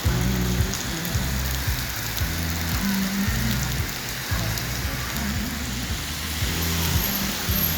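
Heavy rain pouring down and splashing on the pavement with a steady hiss. Music with a deep bass line and a regular beat plays underneath.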